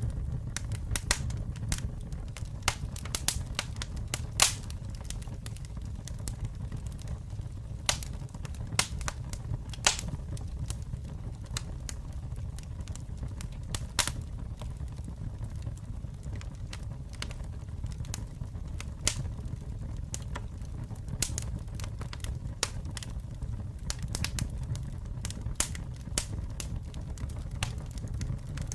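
Campfire burning: a steady low rumble of flames under irregular sharp crackles and pops of burning wood, with a few louder pops scattered through.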